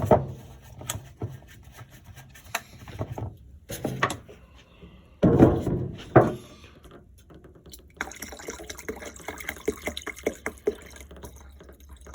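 Activator for 2K primer being poured into a mixing cup, mixed with sharp clicks and knocks as the containers are handled. A louder noisy spell starts a little over five seconds in.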